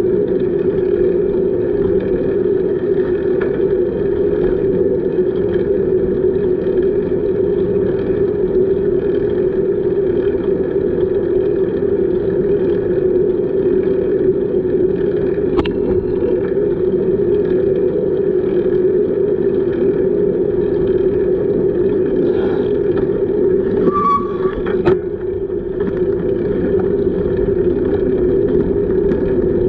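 Steady rumbling noise of a bicycle ride: wind on the microphone together with road and tyre noise. Late on there is a short squeak and a couple of clicks.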